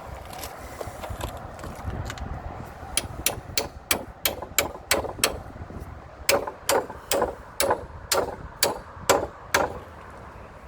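Hammer striking the wooden gate repeatedly, in two runs of evenly spaced blows about two to three a second with a short pause between them.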